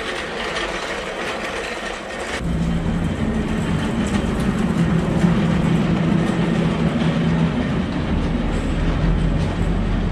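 Loaded hand cart rolling over rough pavement, a steady rumble and rattle of its wheels and load, starting about two seconds in after a short scraping noise.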